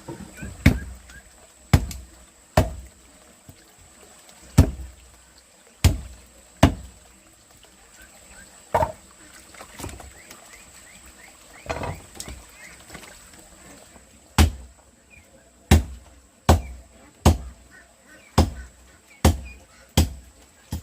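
Repeated sharp chopping strikes, a blade coming down on a wooden block roughly once a second, irregularly, with a few softer blows around the middle.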